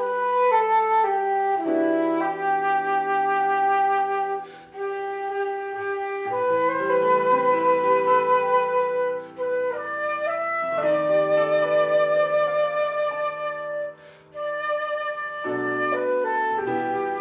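Instrumental church music: a flute melody over held chords, played in phrases with short pauses between them.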